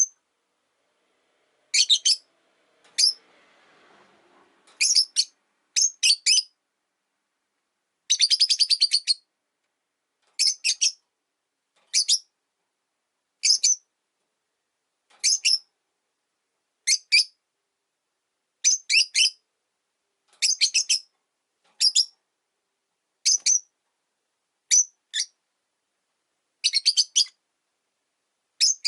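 Rosy-faced lovebirds calling: short, shrill chirps in clusters of one to three, coming every second or two, with a longer rapid chatter about eight seconds in.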